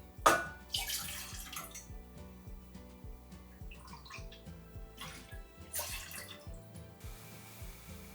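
Water running and splashing in two short bursts, the first about a quarter second in and the second near six seconds, over soft background music.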